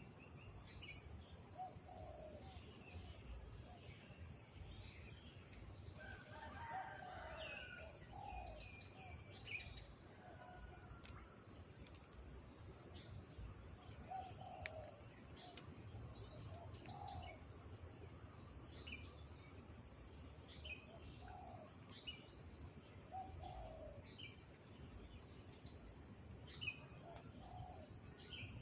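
Faint rural morning ambience: several birds chirping and calling every second or two over a steady, high-pitched insect drone.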